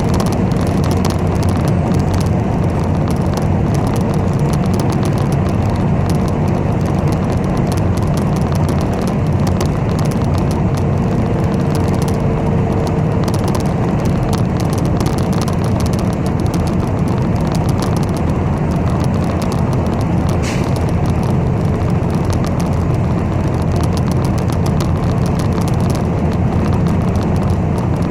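Steady engine and road rumble of a city bus on the move, heard from inside the cabin, with one brief click about twenty seconds in.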